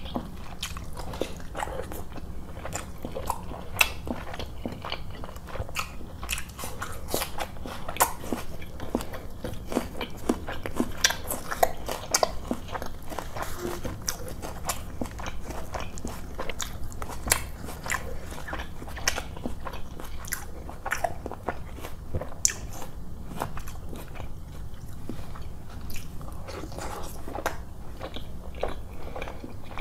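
Close-miked chewing and biting of chicken curry and roti: a steady run of short mouth clicks and smacks.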